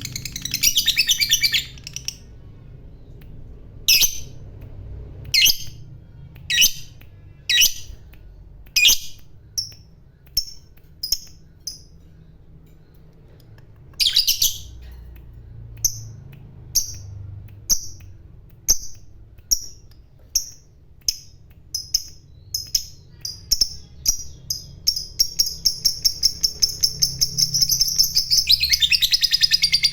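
Lovebird calling. A brief burst of chatter opens, then come sharp high chirps about once a second. They speed up and run together into a fast, unbroken chattering trill near the end: the long "ngekek" song that lovebird keepers prize.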